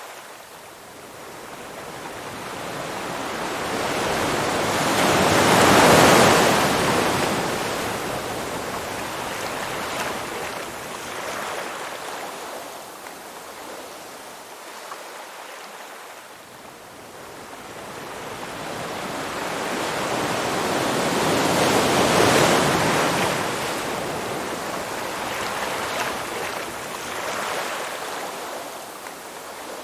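Waves washing in and drawing back, swelling twice to a loud rush about sixteen seconds apart.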